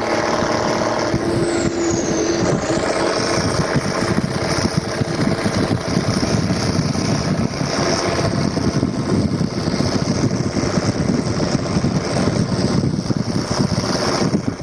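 A loud, steady vehicle rumble. A held tone carried over from just before fades out about two seconds in.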